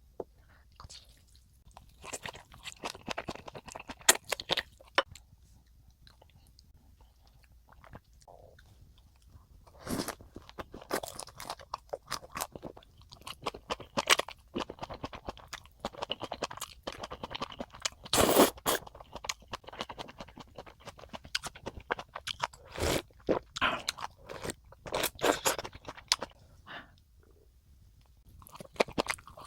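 Close-miked eating sounds of black bean noodles with crispy fried sweet and sour pork: crunchy bites and chewing in irregular bursts, with short quiet pauses between mouthfuls.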